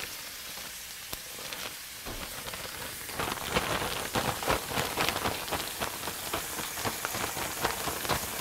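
Snapping turtle meat frying in oil in a cast iron skillet: a steady sizzle with crackling pops that grow busier and louder about three seconds in.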